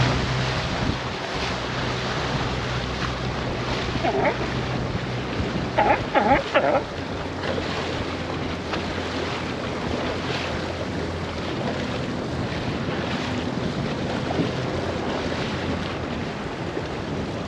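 A boat running on open water, with a steady low motor hum under the rush of water and wind buffeting the microphone.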